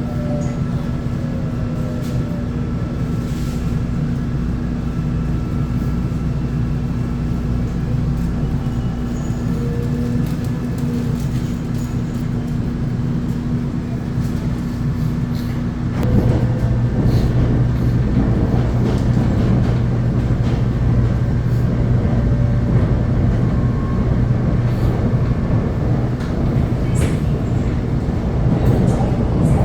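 Seoul Metro Line 4 commuter train running, heard from on board: a steady rumble with a low electric hum. About halfway through it grows louder as a deeper drone sets in.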